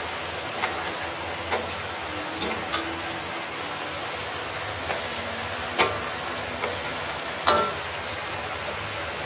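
Sweet potato strips frying in bubbling oil in a stainless steel wok, a steady sizzle, with wooden spatulas knocking and scraping against the wok now and then; the loudest knocks come about six and seven and a half seconds in.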